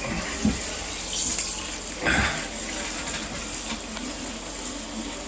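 Running tap water splashing over a vacuum filter being rinsed, with a couple of low knocks from handling the parts.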